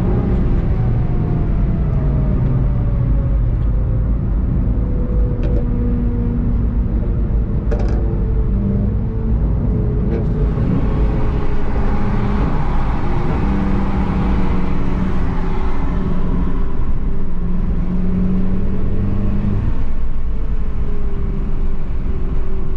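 In-car sound of a VW Golf 7.5 GTI TCR's turbocharged 2.0-litre four-cylinder engine driving down a long straight, with wind and tyre noise. The engine note falls over the first few seconds, then runs fairly steadily.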